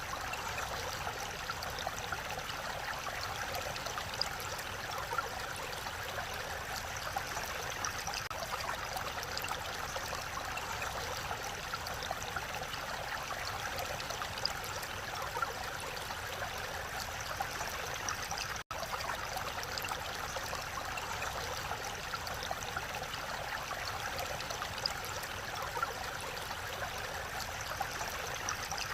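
Mountain stream rushing steadily over rocks in a valley, an even wash of water sound, with a momentary dropout about two-thirds of the way through.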